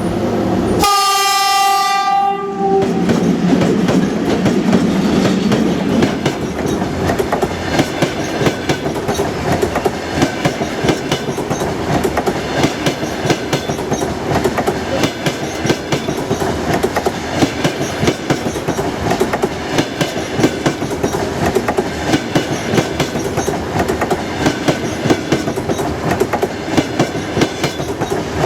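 An electric locomotive's horn sounds one blast of about two seconds, then the passing double-decker passenger train's wheels clatter steadily over the rail joints.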